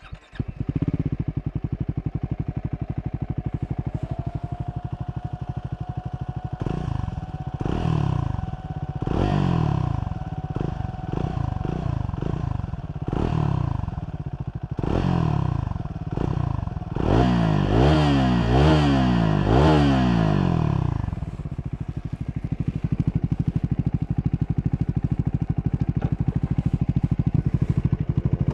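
Triumph Scrambler 400 X's single-cylinder engine starting and idling, then revved in a string of throttle blips that rise and fall in pitch. The blips come quickest in a run of rapid revs about two-thirds of the way in, and then it settles back to a steady idle.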